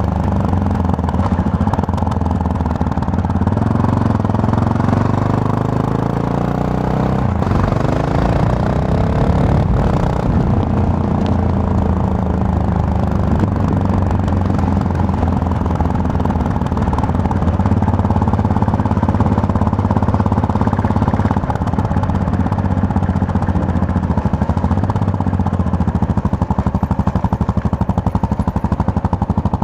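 Yamaha MT-03 motorcycle engine under way. Its note drops as the bike slows, rises again from about seven seconds as it accelerates, then holds at a steady cruise.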